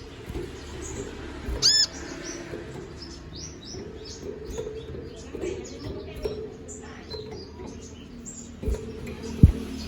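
Konin (brown-throated sunbird) singing a rapid run of short, high chirps and twitters, with one louder ringing note about two seconds in. Two sharp knocks come near the end.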